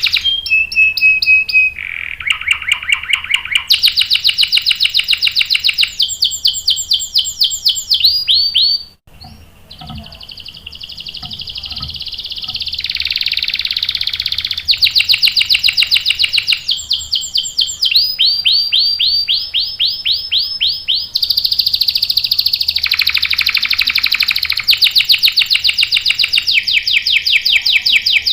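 Domestic canary singing long rolling trills: fast runs of repeated notes that switch to a new phrase every couple of seconds, with a brief pause about nine seconds in.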